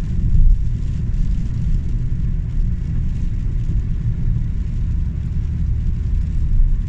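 Steady low rumble of a car in motion, with no sudden events.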